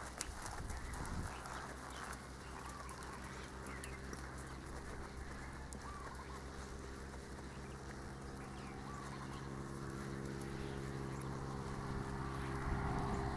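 A bird calling a few times, a short curved note about every three seconds, over a steady low hum.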